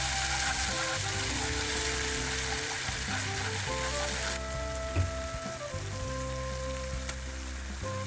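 Food frying in hot oil in a pan, a loud steady sizzle that cuts off abruptly about four and a half seconds in, with background music throughout.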